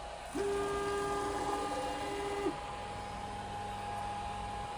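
3D printer's stepper motors giving a steady pitched whine for about two seconds, starting about half a second in and cutting off suddenly, over a constant steady hum.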